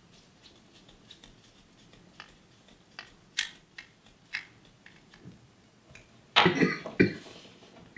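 Scattered small clicks and taps of hands working small parts and tools, then a louder clatter lasting about a second, about six seconds in.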